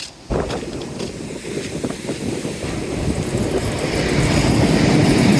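A short train coming up from behind along the line, its rumble building steadily and growing louder toward the end, with a high hiss joining about halfway through.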